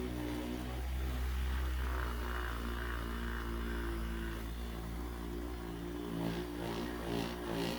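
Electric machine polisher running steadily as it buffs polishing compound into sanded paint, a continuous motor hum.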